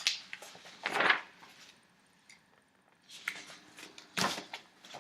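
Printed paper sheets being handled and turned over, a few short rustles with quiet gaps between.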